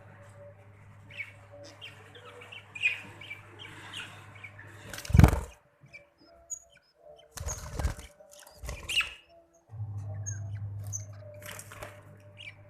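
Budgerigars chirping in short high calls, with a few loud brief bursts of wing flapping about five seconds in and again near eight to nine seconds. A steady low hum runs underneath, dropping out in the middle.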